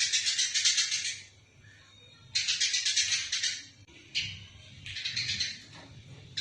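Eurasian tree sparrows giving rapid chattering fighting calls, in four bursts separated by short pauses.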